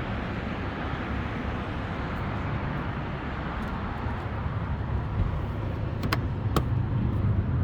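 Steady low outdoor rumble, growing a little louder near the end, with two light clicks about six seconds in.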